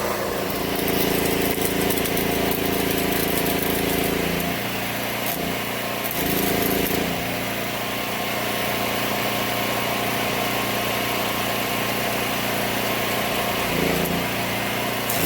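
Angle grinder grinding steel, its whine coming in bursts: a long one over the first few seconds, a short one about six seconds in, and another near the end, over a steady hiss.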